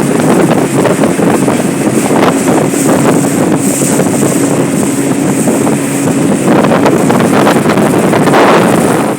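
Wind buffeting the microphone over the steady hum of a small river boat's engine running under way.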